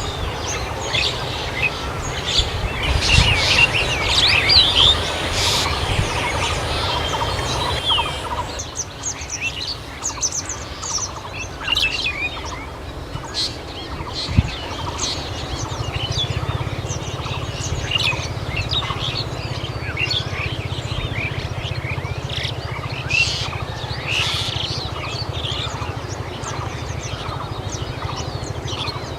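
Birds chirping and calling, many short high notes in quick, irregular succession, over a steady low rumble. The background changes abruptly about eight seconds in.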